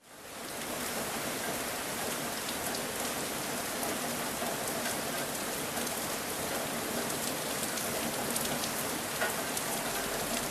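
Steady sizzling of hot oil with scattered faint crackles, as bottle gourd vadas deep-fry.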